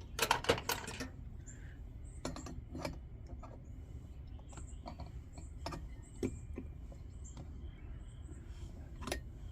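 Light metallic clicks and taps of small lantern parts being handled as the generator nut of a Coleman 222B lantern is fitted and turned on. A quick run of clicks in the first second, then scattered single clicks.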